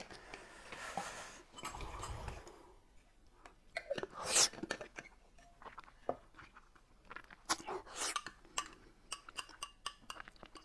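Mealtime eating sounds: chewing, with small clicks of chopsticks and a spoon against bowls and a glass cup. The clicks come thick and fast near the end.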